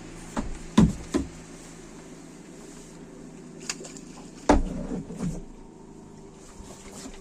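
Several knocks and thumps against the hull of a small boat, three in quick succession just after the start and a couple more about four and a half seconds in, over a steady low hum.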